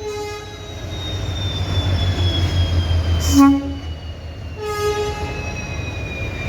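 EMD WDP4D diesel locomotive's two-stroke V16 engine rumbling, swelling in the middle, with a thin high whine that slowly falls in pitch. A short horn blast sounds about halfway through, and a weaker horn tone follows a second or so later.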